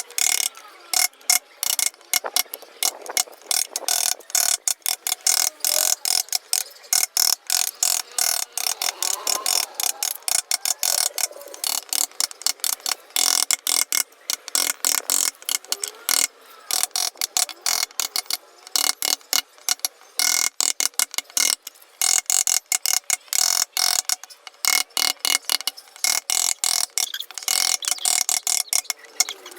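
Wood being cut with a carving chisel: a fast, irregular run of sharp clicks and snicks, several a second.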